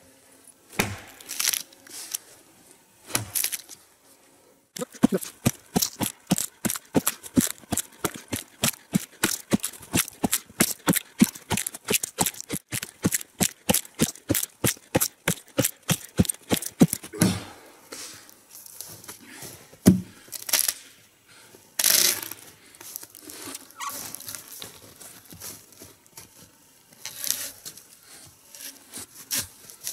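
A hand saw cutting through a spruce trunk with quick, even strokes, about four or five a second, that start about five seconds in and stop after some twelve seconds. A few separate knocks come before and after the sawing.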